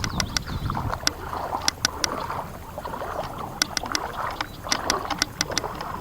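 Rubber boots wading through shallow floodwater, each step sloshing and splashing. Sharp little clicks are scattered through the sloshing.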